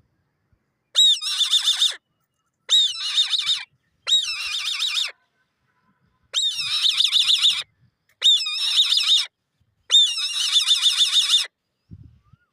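An eagle calling: six high-pitched, whinny-like chattering calls about a second long each, every one opening with a downward slide and breaking into a fast trill.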